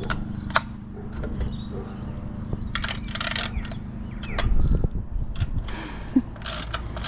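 Metal clicks, clinks and scraping of spanners and awning hardware being handled while a bolt is fitted through the awning arm, with a dull knock about halfway through, over a steady low hum.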